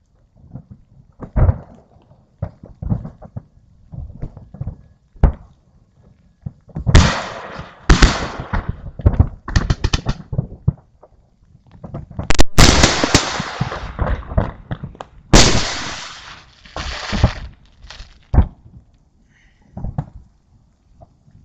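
Fireworks salute heard close to the launch site: a string of sharp bangs and bursts, building to two dense runs of loud, crackling explosions about seven and twelve seconds in.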